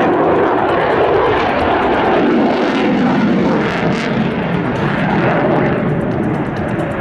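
Airplane engine noise from an aircraft flying at an airshow: a loud, steady noise.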